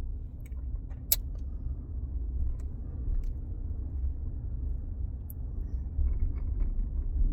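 Low, steady rumble of a car heard from inside the cabin as it rolls or idles, with a single sharp click about a second in.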